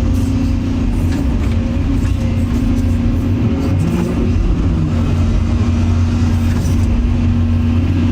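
Excavator's diesel engine running steadily with a low droning hum, its pitch wavering a little as the machine works.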